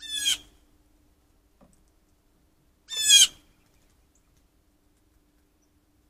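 Two short bird calls about three seconds apart, each about half a second long and dropping slightly in pitch.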